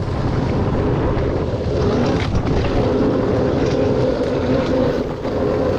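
Dirt bike engine running steadily, with wind buffeting the microphone.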